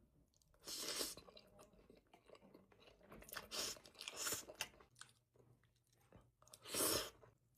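Close-miked chewing and crunching of food, with irregular bites: one loud crunch about a second in, a cluster from about three to four and a half seconds, and another loud one near seven seconds.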